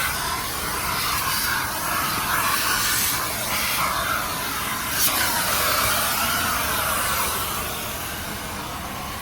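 Car wash vacuum running, its hose sucking air with a steady hiss and a whine that wavers up and down in pitch. A brief sharp click about five seconds in.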